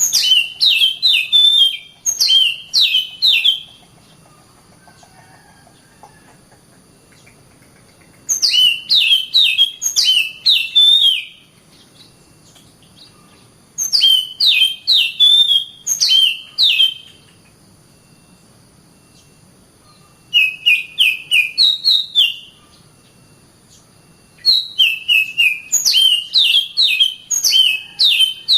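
Oriental magpie-robin singing in phrases of rapid, sharp whistled notes, each phrase about two to three seconds long with pauses of a few seconds between them.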